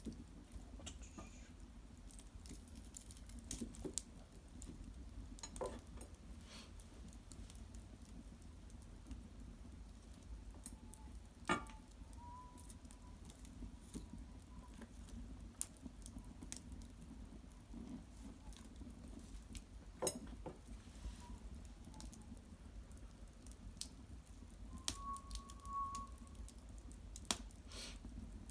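Wood fire of cedar branches and bark crackling in an open hearth: irregular sharp pops and ticks, some louder than others. For several seconds around the middle, and briefly near the end, there is a faint thin whistle.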